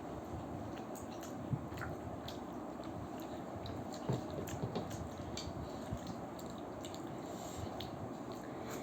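Chewing and biting into momos (steamed dumplings), with a few scattered light clicks of chopsticks against a plate over a steady background hiss.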